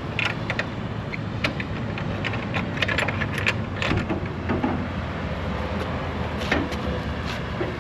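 About forty piglets moving about in a livestock trailer, with scattered short knocks and clatters and a few brief squeals over a steady low vehicle hum.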